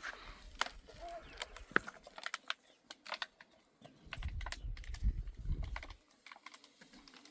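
Scattered light clicks and taps, with a low rumble from about four to six seconds in.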